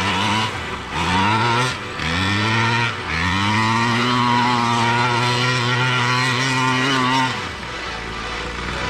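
Small gas engine of a fifth-scale RC monster truck revving: two short blips of the throttle, then held at high revs for about four seconds before dropping back to idle near the end.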